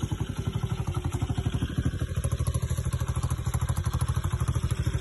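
125cc mini motorcycle engine idling steadily, with a fast, even firing pulse.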